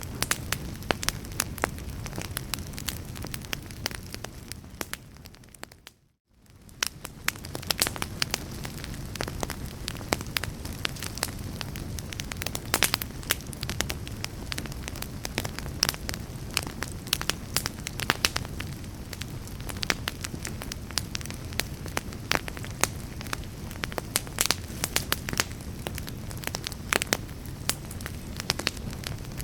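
Wood fire crackling, with many sharp pops and snaps over a steady low rumble. About five seconds in it fades down to near silence and fades back up a second or so later.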